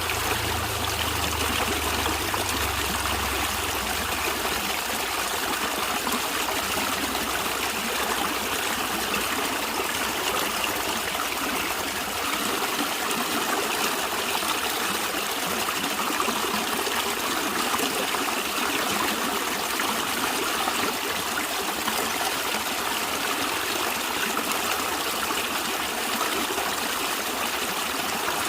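A stream of water running and trickling steadily. A low rumble underneath fades away over the first few seconds.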